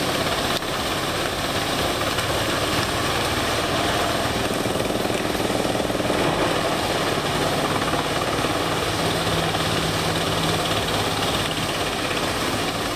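Large industrial wood chipper running, a loud, steady, dense grinding noise over its engine that starts suddenly and holds even throughout.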